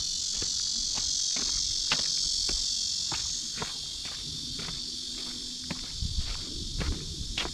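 A steady, high-pitched chorus of insects chirring, with footsteps about twice a second underneath as someone walks.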